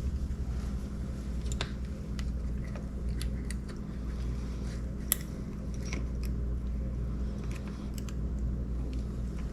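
Scattered small clicks and taps of metal parts and hand tools being handled while working on an outboard motor's ignition, one sharper click about five seconds in, over a steady low hum.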